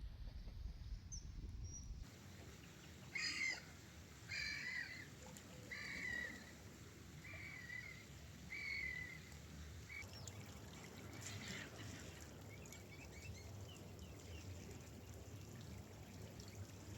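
Gull calling: a run of five short calls just over a second apart, then a few fainter calls, over a low steady background noise.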